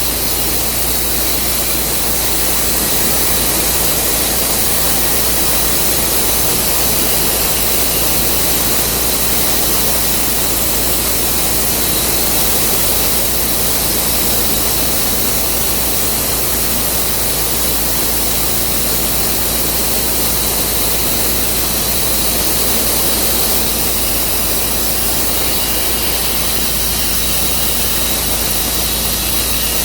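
Tru Cut sawmill's engine running steadily with a loud, even noise.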